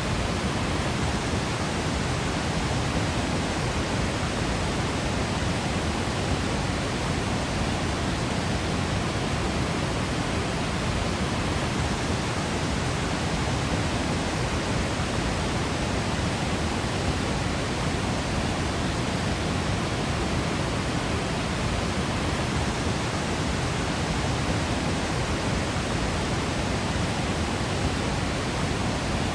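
Waterfall in Yosemite, a steady, even rush of falling water that does not change.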